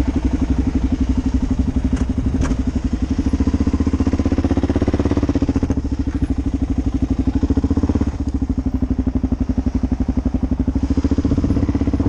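Motorcycle engine running at low speed with a steady pulsing exhaust beat, heard from the rider's seat. There are a couple of light clicks about two seconds in, and the beat eases briefly about eight seconds in.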